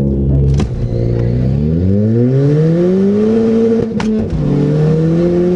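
Ford Fiesta ST engine heard from inside the cabin, accelerating hard down a drag strip. The revs climb steadily, drop with a click at an upshift about four seconds in, then climb again.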